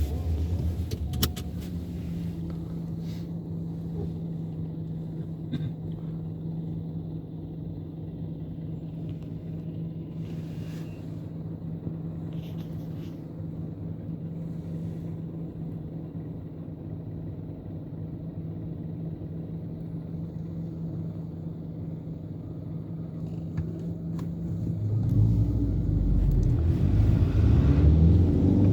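Chevrolet Cruze 1.6 16V four-cylinder petrol engine heard from inside the moving car, running steadily with an even hum. About 25 seconds in it grows louder and rises in pitch as the car accelerates.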